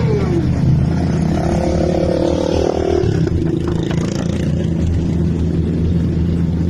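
Motorcycle engine running with a steady low rumble. A rev falls away about half a second in, and another rev rises and holds between about one and three seconds in.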